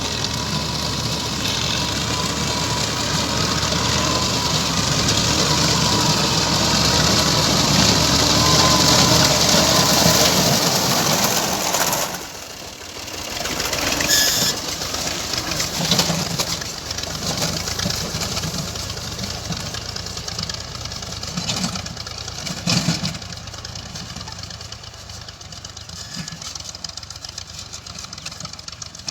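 Tractor engine running while cutting grass, loud and steady at first; about twelve seconds in it drops off suddenly, then runs on quieter and more unevenly, fading toward the end.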